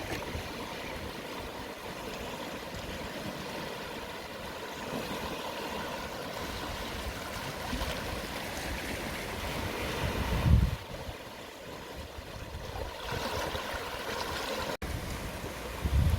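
Small, calm sea waves washing and receding over the shore at low tide, a continuous swelling wash. About ten seconds in, wind buffets the microphone with a brief low rumble, and the sound cuts out for an instant near the end.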